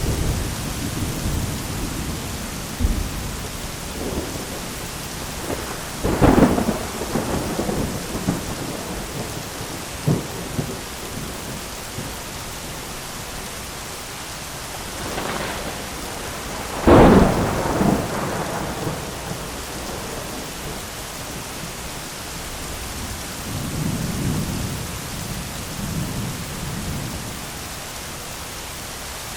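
Heavy rain falling steadily, drumming on an umbrella, with two loud thunder cracks about 6 and 17 seconds in and softer low rolls of thunder near the end.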